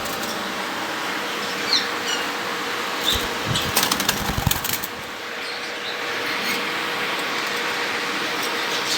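Cage birds fluttering their wings in a short flurry about three to four and a half seconds in, with a few short chirps, over a steady background hiss.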